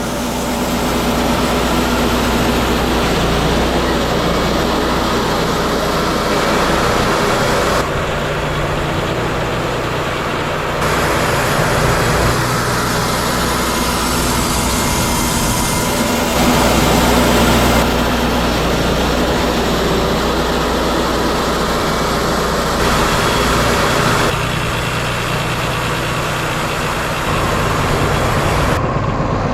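Wood-Mizer LT40 Hydraulic portable bandsaw mill running, its engine steady under the noise of the band saw, with abrupt shifts in level several times.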